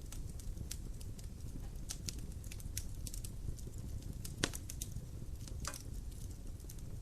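Wood fire crackling in a fireplace: a low steady rumble with scattered irregular snaps, one sharper pop about four and a half seconds in.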